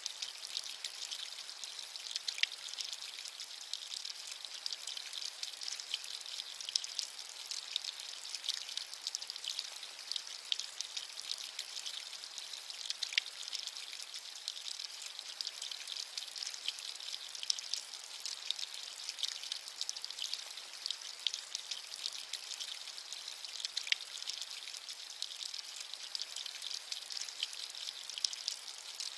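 Steady rain falling, a high hiss of many small drops with now and then a louder single drop.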